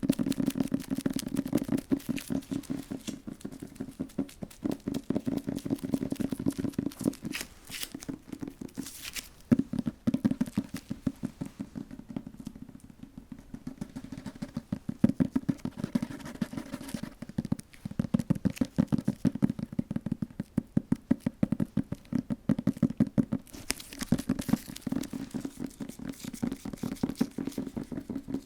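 Rapid, light ASMR tapping on an object, many taps a second in long runs, with a few short pauses.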